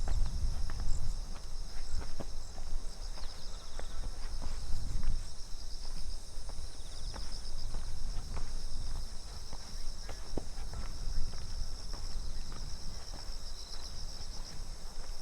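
Footsteps on a path, irregular short scuffs and taps, over a steady chorus of insects trilling in high, pulsing chirps, with a low rumble of wind or movement underneath.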